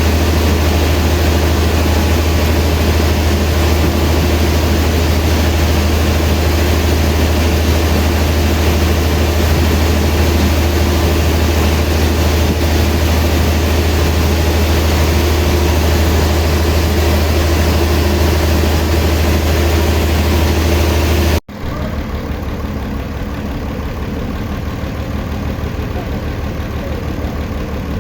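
Sawmill machinery running steadily with a strong low hum. About two-thirds of the way through, an abrupt cut leads to a quieter engine running with an even throb.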